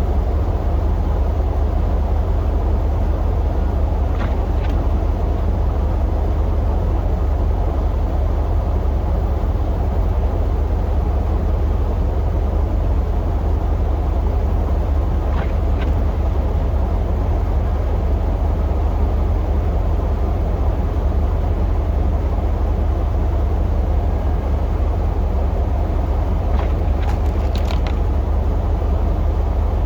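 Pickup truck running: a steady low rumble with a few faint clicks.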